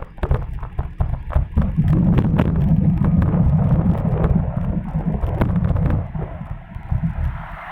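Wind buffeting the microphone of a camera on a moving bicycle, a heavy rumble with many short clicks and rattles mixed in, easing off about six seconds in.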